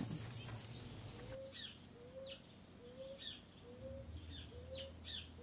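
Brief rustling at first, then birds calling: short high chirps in irregular groups, and a lower short rising note repeated evenly about every two-thirds of a second.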